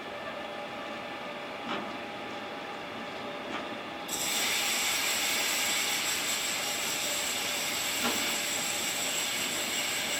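Train wheels on the rails: at first a moderate rolling sound with faint steady tones, then about four seconds in a loud hiss with high steady squealing tones sets in suddenly and holds.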